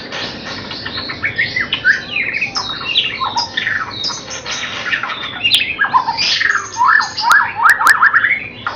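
White-rumped shama (murai batu) singing in quick varied phrases of chirps and whistled glides, with a run of rapid rising sweeps in the second half. A few sharp clicks come in the second half.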